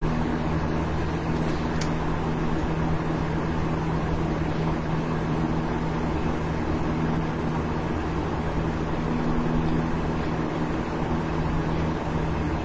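Steady outside noise coming in through an open window: a constant low rumble and hum, of the kind vehicles make.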